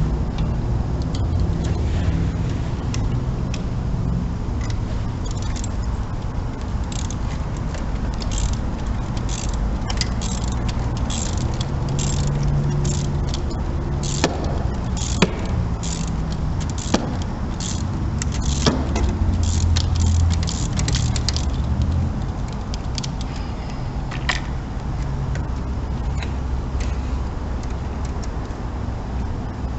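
Sharp metallic clicks and clinks of hand tools, a ratchet and socket working on a spark plug, most of them in a run through the middle, over a steady low rumble.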